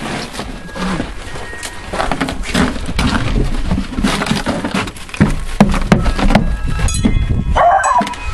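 A dog whimpering, with a short higher cry near the end, over a steady low rumble of wind on the microphone.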